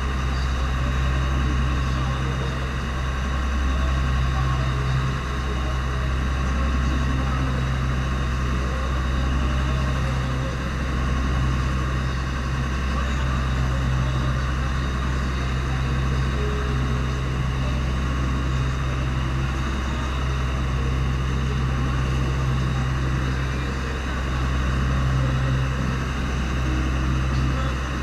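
Fishing boat's engine running steadily, a low drone that barely changes.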